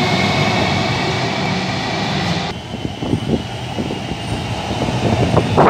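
Melbourne Metro electric suburban train running along an underground platform: a loud, dense rumble with a steady whine over it. About two and a half seconds in the sound cuts to a quieter station background as another train approaches, broken by scattered sharp knocks.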